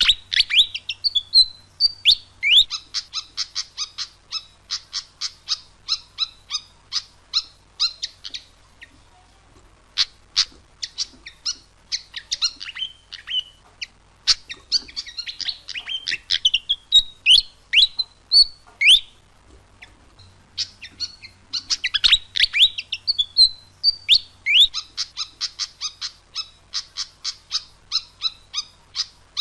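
Malaysian pied fantail (murai gila) song played as a lure call: long runs of rapid, squeaky chirps with quick rising sweeps, in three bursts of about eight seconds broken by short pauses, with the same run of notes repeating.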